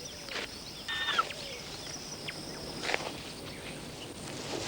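Savanna field ambience: a steady high insect buzz, with a short bird chirp about a second in and a few sharp clicks of rustling or pecking.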